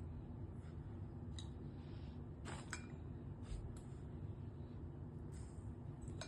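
A few faint, scattered clicks and short scrapes of a spoon and salt container being handled as more salt is added to a bowl of water, over a low steady hum.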